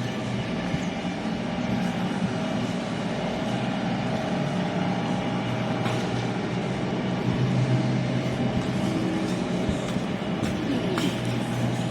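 A large engine or machine running steadily: a constant low hum with an even noise over it and a few light clicks and knocks.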